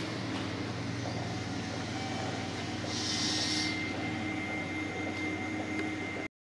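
Electric train at the station platform: a steady hum with faint steady whining tones, and a short hiss about three seconds in. The sound cuts off abruptly near the end.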